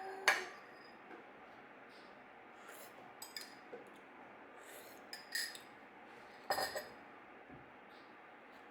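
Glassware and kitchenware being handled and set down on a shelf. A sharp clink comes just after the start, then a few light taps, and two or three clinks about six and a half seconds in.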